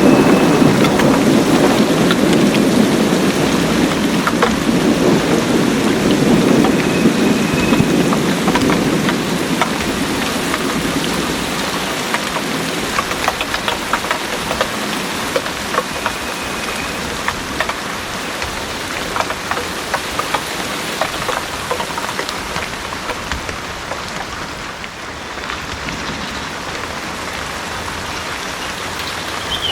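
Heavy rain pouring steadily, with many separate drops striking nearby surfaces. A low rumble of thunder fades away over the first several seconds.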